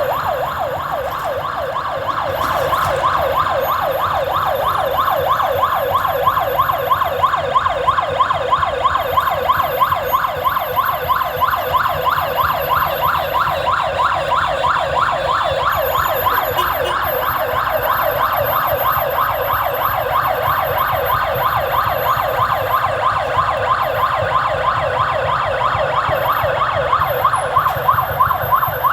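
Vehicle siren going in a fast, repeating rising yelp, several sweeps a second, over a steady low engine hum.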